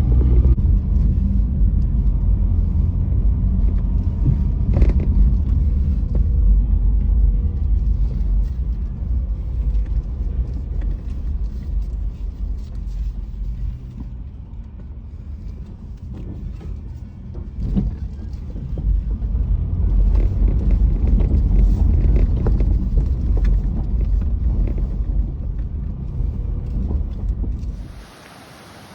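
A car driving, a steady low road rumble. It eases off around the middle, builds again, and cuts off near the end.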